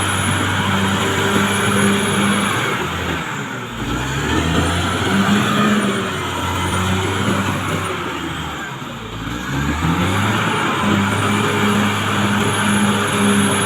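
Caterpillar D6R XL bulldozer's diesel engine running under load, with its pitch sagging and recovering twice as it lugs, and a faint high whine over the engine note.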